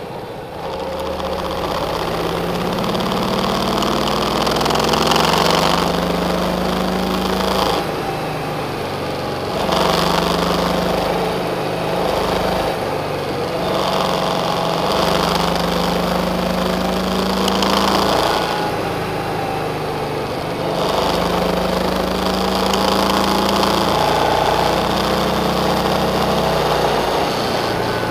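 Car engine running on a winding road, its pitch climbing for a few seconds and then dropping back, over and over, over a steady road and tyre noise, heard from inside the cabin.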